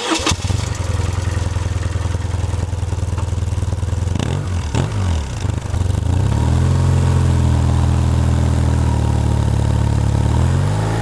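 BMW Rockster's boxer-twin engine catching right after a sharp click, then idling steadily. It is blipped twice about four to five seconds in, then settles to a louder, steady running note, with the pitch rising near the end.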